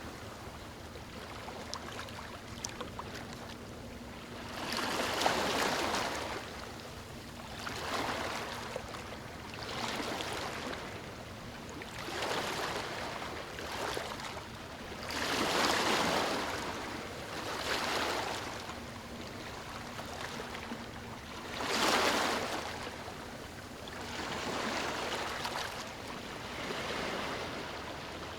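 Ocean waves breaking and washing up on a beach, each wave swelling and falling away every two to three seconds, the loudest one about three quarters of the way through.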